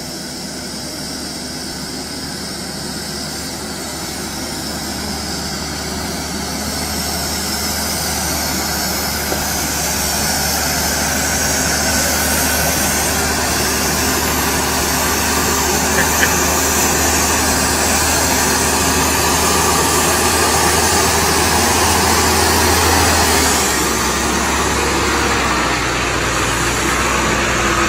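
A motor vehicle's engine running with steady road and rushing noise, growing gradually louder over about twenty seconds and easing a little near the end.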